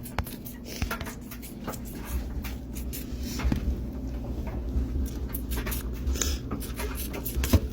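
Homemade laundry detergent paste being scraped and tipped out of a plastic container into a front-loading washing machine: many small taps, scrapes and knocks, with a low rumble from about two seconds in.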